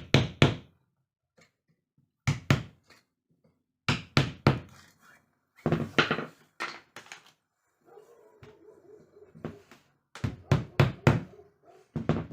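Sharp knocks in quick groups of three to five, a group every second or two, with a pause in the middle, as if a wooden chair frame were being struck or worked.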